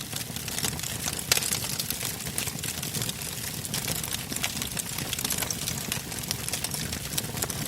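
Wood fire burning, with frequent sharp crackles and pops from the logs over a low steady rumble; one louder pop about a second in.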